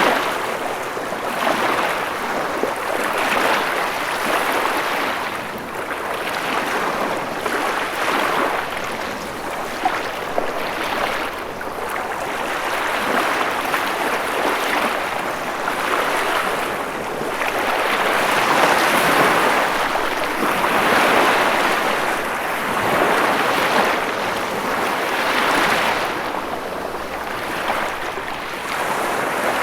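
Ocean waves washing ashore, a steady surf rush that swells and recedes every few seconds.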